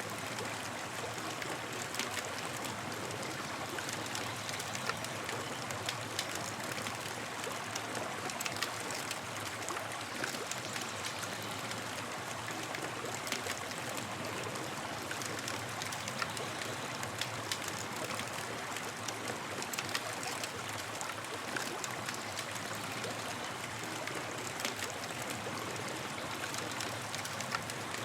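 Campfire burning: a steady hiss with frequent small crackles and pops from the burning wood.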